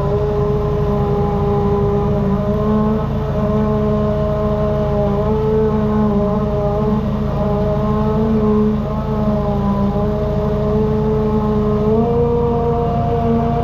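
Engine of a high-pressure drain jetter running steadily, its pitch wavering slightly and stepping up a little about twelve seconds in.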